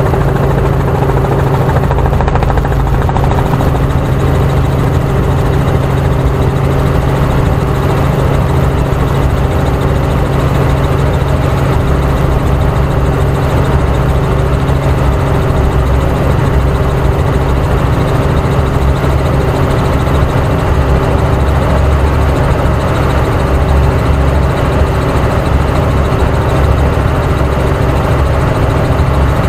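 Helicopter in flight, heard from inside the cabin: a steady, unbroken drone of engine and rotor with a constant low hum.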